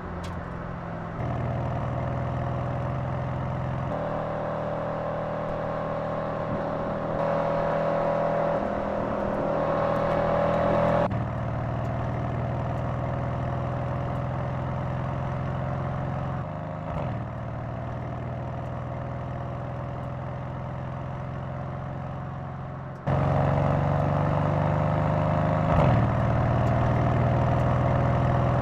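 Mercedes-AMG C 63 S Coupe's 4.0-litre twin-turbo V8 running under load while the car drives, its pitch rising in several stretches as it accelerates. Near the end the pitch drops at a gear shift. The sound jumps abruptly in level and pitch a few times where separate recordings are cut together.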